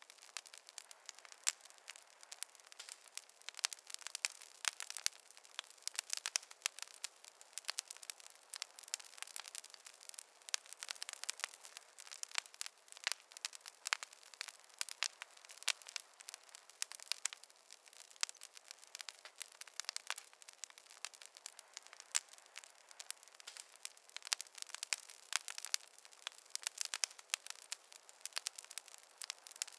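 Wood fire crackling, with frequent irregular sharp pops and snaps over a faint hiss and no low rumble.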